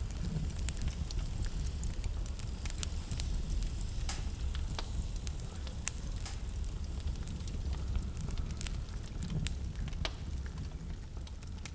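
Wood fire burning in a fireplace: a steady low rumble with irregular sharp crackles and pops, a few louder ones scattered through.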